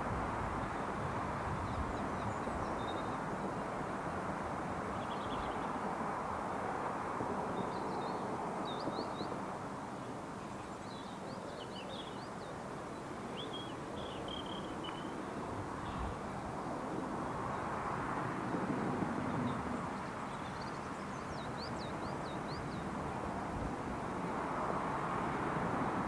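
Small birds chirping in short bursts of rising and falling notes, several times, over a steady distant rumble that grows a little louder near the end.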